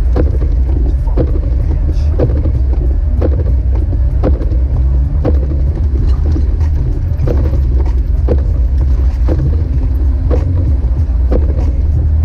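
Steady low rumble of a Jeep Wrangler YJ driving, heard from inside, with music playing a regular beat about once a second over it.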